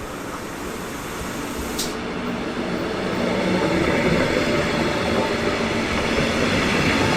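A passing train's running noise on the rails, growing steadily louder as it approaches, with a single brief click about two seconds in.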